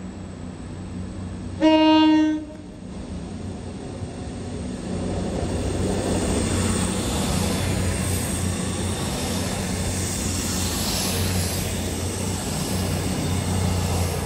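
CrossCountry Class 221 Super Voyager diesel-electric train gives one short horn blast on a single note about two seconds in. It then runs past departing, its underfloor diesel engines droning and the wheels on the rails growing louder as it comes alongside.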